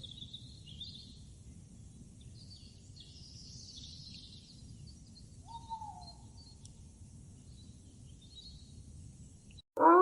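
Faint bird chirping and twittering over a low background hiss, with one short, lower falling call about halfway through. Just before the end a loud, steady pitched animal call starts abruptly.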